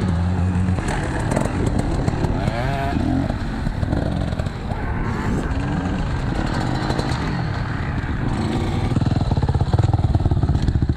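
Several vintage motocross motorcycles racing, their engines revving up and down as they pass, one growing louder near the end.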